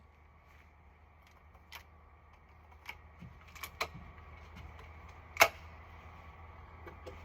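Scattered sharp mechanical clicks and knocks over a faint steady low hum, with one much louder click about five and a half seconds in.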